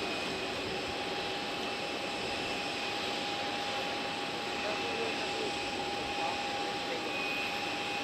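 Boeing 747-400 freighter's jet engines running steadily at taxi power, a continuous noise with a steady whine over it.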